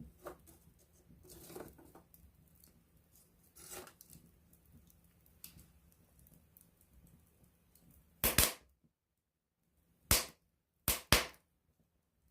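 Wood campfire crackling softly, then four loud, sharp pops from the burning wood in the later part, the last three within about a second of each other.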